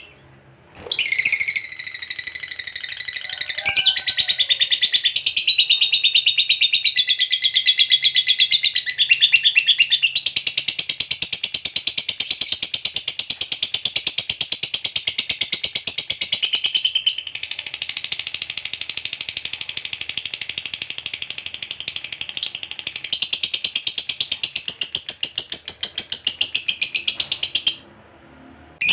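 Lovebird ngekek: one long, unbroken run of rapid, high-pitched chattering notes, starting about a second in and cutting off shortly before the end.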